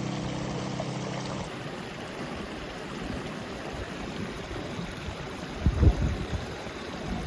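Steady rain hiss, with a few low thumps about six seconds in. Background music plays for the first second and a half, then stops.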